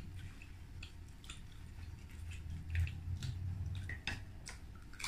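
Quiet eating sounds: chewing and small mouth smacks, with scattered faint clicks as chicken wings and lettuce are handled, over a low steady hum.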